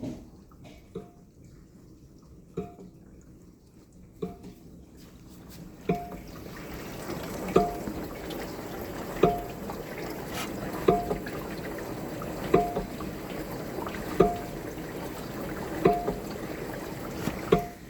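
A GE dishwasher's lower spray arm knocking against the heater bracket once each turn: sharp thunks about every second and a half, over the hiss of spraying water that grows louder about six seconds in.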